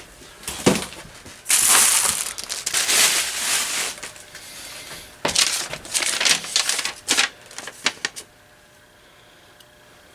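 Packing material crinkling and rustling in irregular bursts as a shipped box is unpacked by hand, going quiet near the end.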